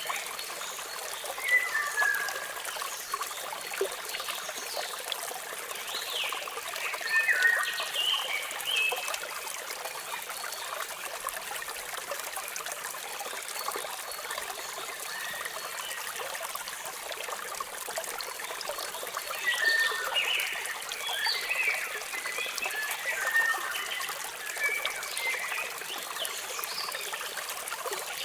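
Steady rush of falling water from a waterfall, with small birds chirping in short clusters: once about two seconds in, again around seven to nine seconds, and in a longer run from about twenty to twenty-six seconds.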